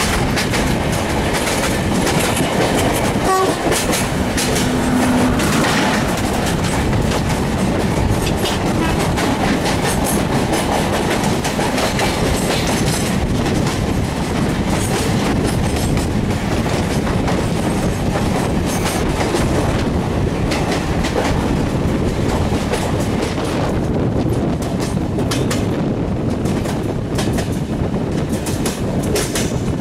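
Indian Railways passenger train passing at speed: a steady loud rush with the wheels clattering over the rail joints, and a brief steady tone a few seconds in.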